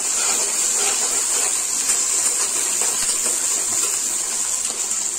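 Freshly added chopped onions sizzling steadily in hot mustard oil in a steel kadhai, with a flat spatula stirring and scraping the pan now and then.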